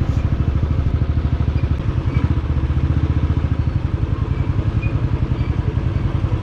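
Royal Enfield Thunderbird 350X single-cylinder engine running at a steady idle through an aftermarket Red Rooster exhaust, with a rapid, even beat that does not rise or fall.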